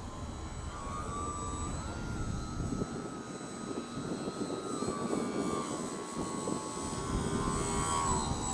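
Electric motor and propeller of a radio-controlled glider whining, the pitch stepping up about two seconds in and easing down later as the throttle changes.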